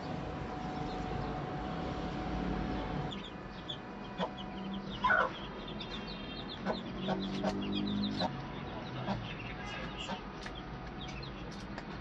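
A steady hum for about three seconds, then birds calling in short chirps and clucks, with one louder call about five seconds in.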